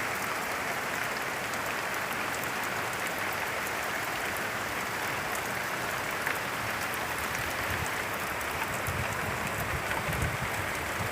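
Heavy rain falling steadily, a dense even hiss of drops with faint crackles.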